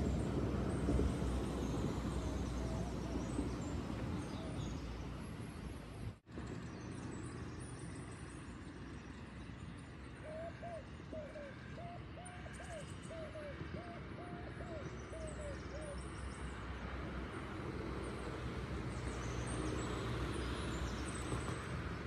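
Steady low outdoor rumble of distant traffic and wind, with faint high bird chirps. From about ten seconds in, a bird gives a run of about a dozen short hooting notes, about two a second, for some six seconds.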